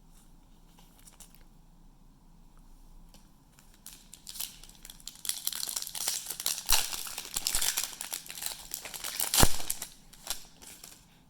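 Trading card pack's plastic-foil wrapper being torn open and crinkled, starting about four seconds in, with one sharp loud tear near the end.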